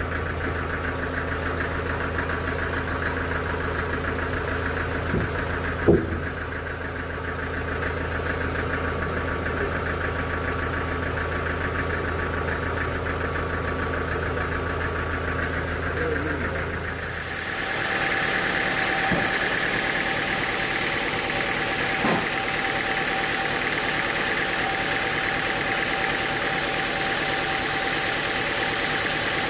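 Sawmill machinery running steadily with a low hum. About seventeen and a half seconds in the sound changes: the low hum drops away and a brighter, higher whine takes over, with a few single knocks scattered through.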